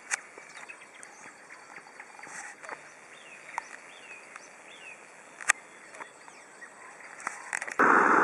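Quiet outdoor morning ambience with a few short bird chirps and scattered sharp clicks. Just before the end, a loud steady rushing noise cuts in suddenly.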